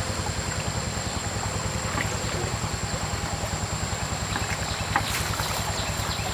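A motor running steadily with a fast, even low pulsing, and a thin high whine above it.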